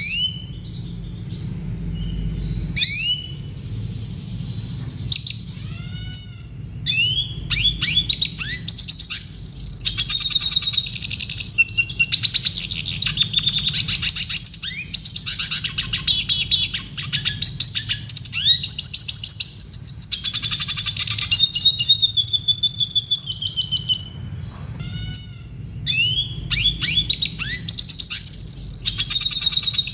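Red siskin singing: a long, rapid twittering song of chirps, trills and rising and falling notes, broken by a few short pauses. A steady low hum sits underneath.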